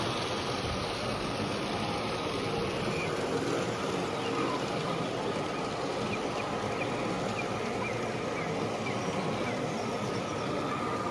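Steady hall background noise, an even wash of sound with faint indistinct voices in it.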